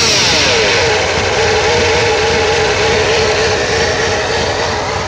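Chevrolet Monte Carlo engine running after its first start of spring, its revs falling away in the first half second and then holding steady. Over it sits a steady whine, which the owner puts down to the power steering pump's bearings, worn after a steering gearbox leak.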